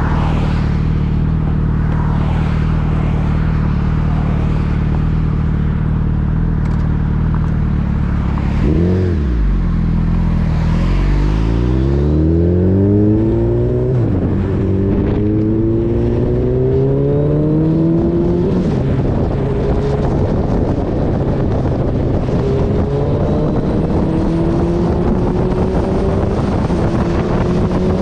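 Suzuki Hayabusa's inline-four engine under way: it runs at steady revs, then about nine seconds in the revs drop and climb steeply as it accelerates, with upshifts around fourteen and eighteen seconds and a further slow climb in revs near the end.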